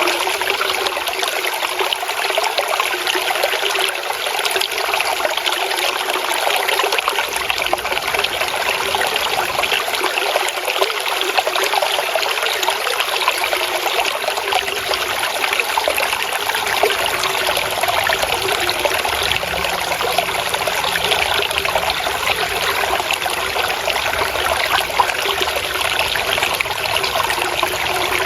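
Water trickling and babbling over stones in a small stream, steady and unbroken.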